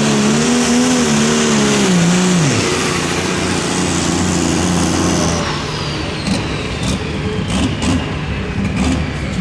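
Pulling vehicle's engine at full throttle during a pull, its pitch wavering, then dropping away about two and a half seconds in as the throttle comes off. A rumbling run-down follows, with a high whine falling in pitch from about halfway through, and scattered pops.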